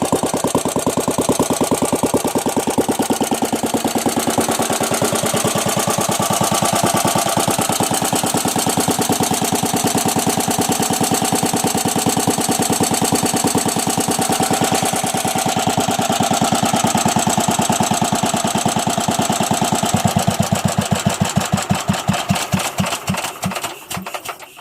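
Bernard W 110 bis single-cylinder engine running with a steady, even beat. About 20 s in it begins to slow, and its firing strokes spread out and die away as it shuts down, stopping right at the end.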